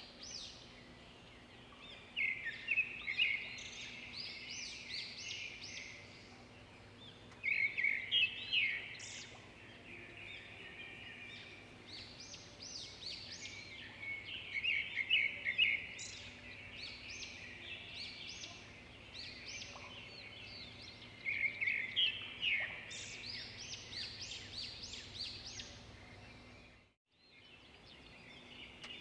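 Swiftlets twittering: rapid, high, clicky chirps in loud bursts about every six or seven seconds, with softer chirping in between. The sound drops out briefly near the end.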